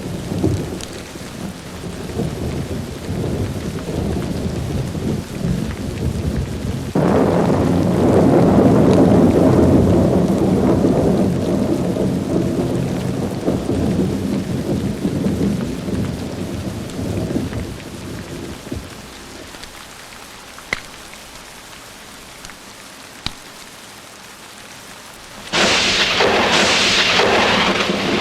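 Thunderstorm with rain: rolling thunder rumbles, then a sudden thunderclap about seven seconds in that rolls on for several seconds. A quieter lull follows with a couple of sharp crackles from a fire. Near the end comes a sudden, loud, sharp crack of close thunder.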